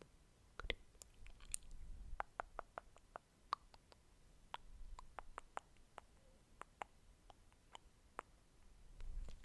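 ASMR mouth sounds close to the microphone: faint, irregular clicks and pops, two or three a second.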